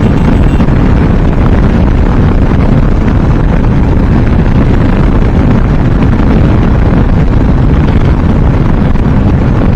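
Steady wind rush buffeting the microphone on a moving motorcycle, with the bike's running and road noise underneath.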